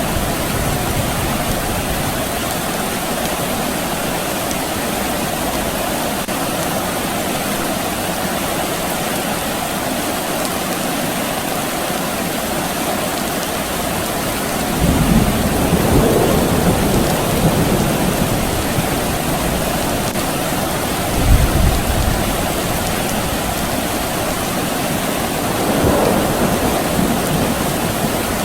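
Steady soft rain falling, with low rumbles of distant thunder about halfway through and again a few seconds later.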